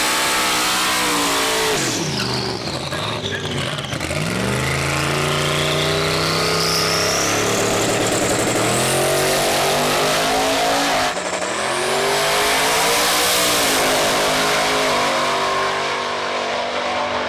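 Twin-turbocharged 427 LSX V8 of a drag-racing Camaro at full throttle, its pitch climbing and dropping back sharply at about two seconds and again at about eleven seconds, with a high whine rising alongside.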